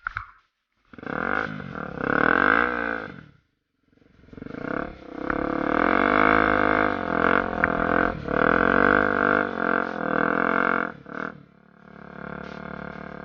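Honda Tornado's single-cylinder four-stroke engine running under way, its pitch rising and falling as the throttle is opened and closed. The sound cuts out briefly twice near the start and settles to a quieter, steadier note near the end.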